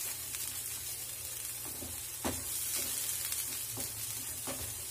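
Coarse green pea paste sizzling as it fries in oil, stirred with a spatula that scrapes the pan and knocks lightly against it, one knock louder about halfway through. The paste is being fried until its moisture and rawness cook off.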